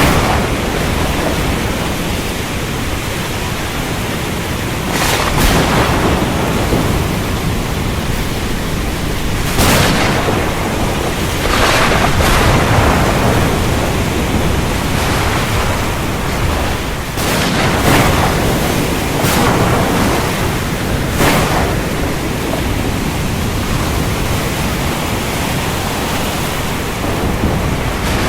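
Heavy rain pouring steadily with a deep thunder rumble underneath, broken by sharp cracks of thunder: two about five seconds in, others near ten and twelve seconds, and a cluster between about seventeen and twenty-one seconds.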